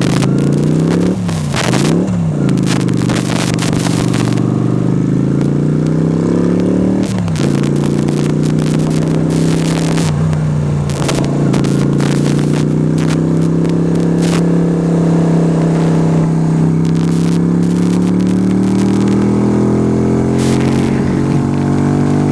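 Yamaha YBR125 single-cylinder four-stroke engine pulling the motorcycle along. Its revs rise and fall twice in the first few seconds, then climb to a sudden drop at a gear change about seven seconds in, hold steady, and slowly climb again near the end. Sharp bursts of wind noise hit the helmet-camera microphone throughout.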